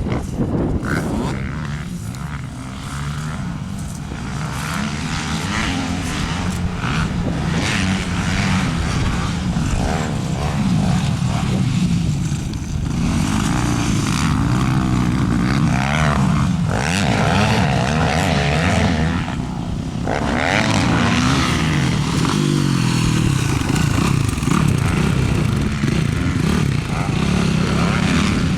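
Motocross dirt bike engine being ridden, its pitch rising and falling again and again as the throttle is opened and closed.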